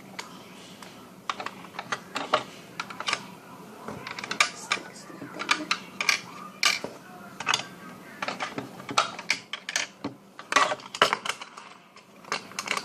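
Small hard-plastic toy pieces clicking and clattering against each other and the plastic toy fridge as they are handled and packed in quickly, in many irregular taps.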